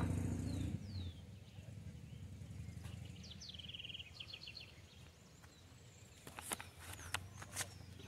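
Faint birdsong: a couple of short downward chirps, then a quick run of repeated high notes about three seconds in, over a low steady rumble. A few sharp clicks near the end.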